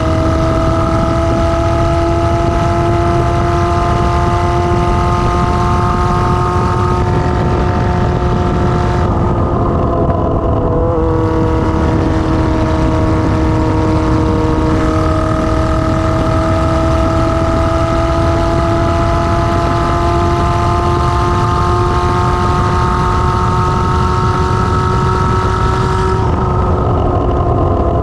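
Kawasaki ZR-7's inline-four running with no exhaust muffler while the bike is ridden. Its note climbs slowly in gear, drops with a gear change about ten seconds in, climbs again, and drops with another change near the end.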